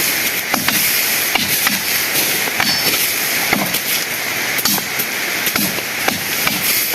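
Steady rushing of a small waterfall, with scattered sharp clicks and short low falling notes over it.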